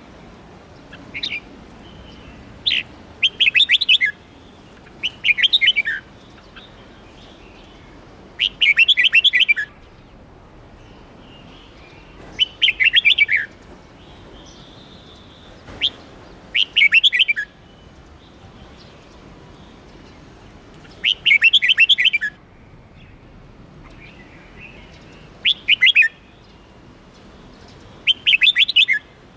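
Red-whiskered bulbul singing: short phrases of rapid, bright chirping notes, each about a second long, repeated every three to four seconds.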